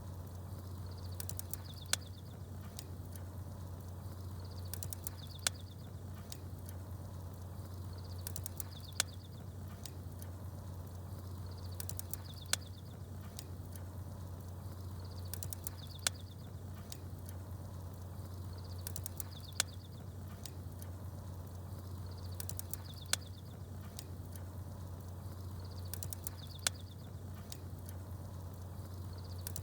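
Campfire and small birds: a sharp crackle pop about every three and a half seconds, with brief high bird chirps between them, over a steady low hum. The same pattern repeats throughout, like a short loop.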